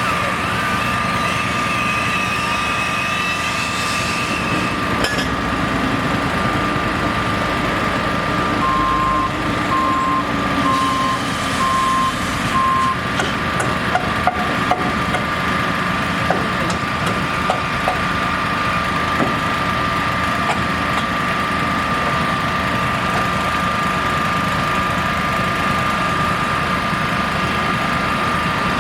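Heavy truck or construction machine engine running steadily, with a backup alarm beeping five times about a third of the way in. A steady high tone runs throughout, and a few sharp knocks follow the beeps.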